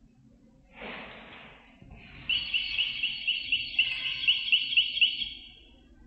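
A brief swish about a second in, then a quick run of about a dozen high bird chirps, about four a second, lasting some three seconds.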